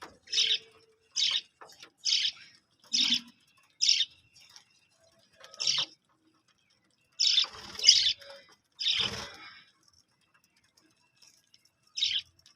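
Budgerigars chirping: short, high calls about once a second, then after a pause a longer stretch of chirping around the middle, and a single chirp near the end.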